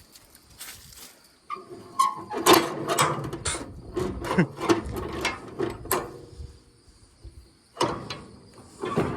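A run of quick mechanical clicks, knocks and rattles, densest over a few seconds, then two short clatters near the end.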